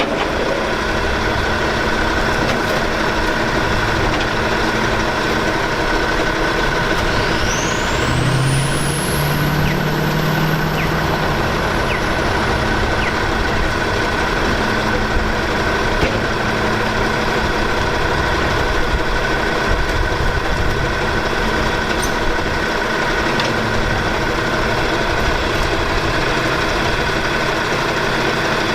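Maxon side-loader garbage truck's engine running steadily, with a steady high whine over it. A high whistle rises and then slowly falls about seven seconds in.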